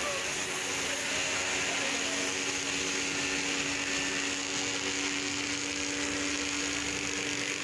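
A motor-driven machine running steadily with a constant hum, which steadies and gets a little stronger about two seconds in.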